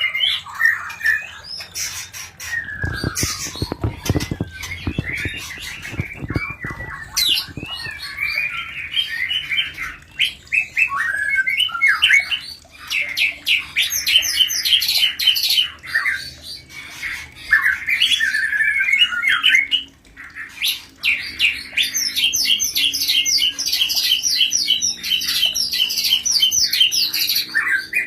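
White-rumped shamas of a mating pair giving excited, rapid chattering calls and harsh squawks, with fast repeated trills later on. A run of sharp knocks and thuds comes a few seconds in.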